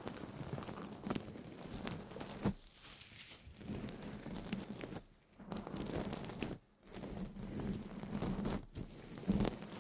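Crinkling and crunching noises in uneven bursts with a few sharp clicks, broken twice by brief pauses.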